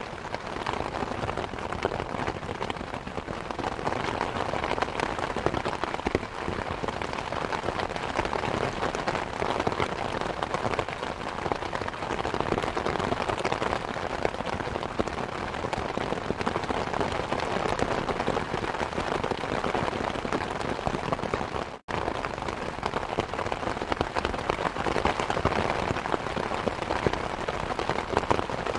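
Steady rain falling, mixed with the fine crackling of a wood fire in a fireplace. The sound cuts out for a split second about 22 seconds in, then resumes.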